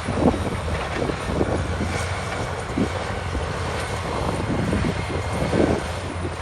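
Caterpillar D6R2 crawler bulldozer's diesel engine running under load with a steady low drone, while irregular knocks and clanks come through over it.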